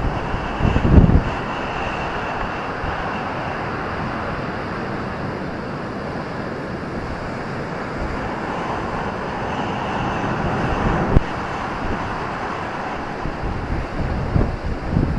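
Ocean surf rushing steadily against a beach, with wind buffeting the microphone in low gusts about a second in.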